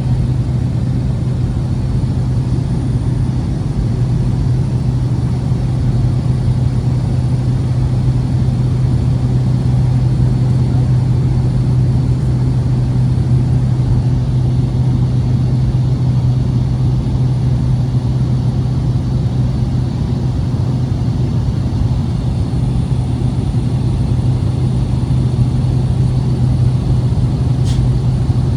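Steady engine and propeller drone inside the cabin of a small propeller plane in cruise flight, with a constant low hum. A brief tick sounds near the end.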